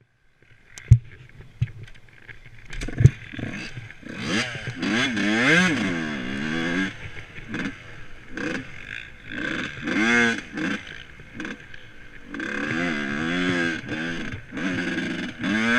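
Motocross bike engine revved in repeated bursts, its pitch swinging up and down, with a few sharp knocks in the first three seconds.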